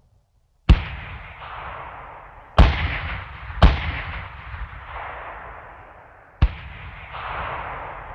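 Four separate explosion sound effects, each a sharp blast followed by a long rolling, echoing rumble that fades away; the third comes about a second after the second.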